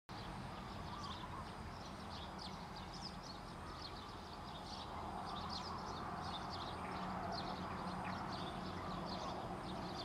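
Small birds chirping in quick, short, high notes over a steady low outdoor background noise.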